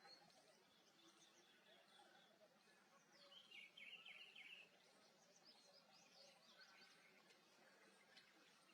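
Faint chirping of small wild birds over quiet background noise, with a short rapid run of high notes about three and a half seconds in.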